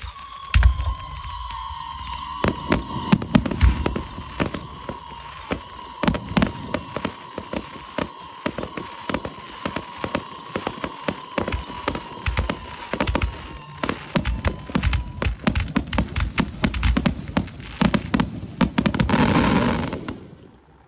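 Aerial fireworks display: rapid sharp cracks and crackling from bursting shells with deep booms, thickening into a dense barrage about nineteen seconds in that then dies away. A steady high tone runs underneath for most of the first fifteen seconds.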